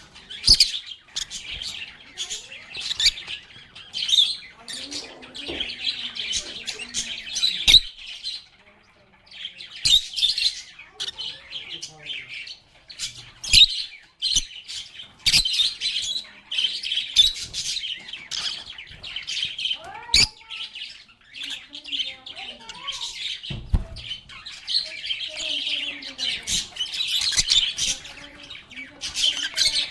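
Lovebirds chirping and chattering together in a dense, shrill stream of calls, broken by a few brief lulls.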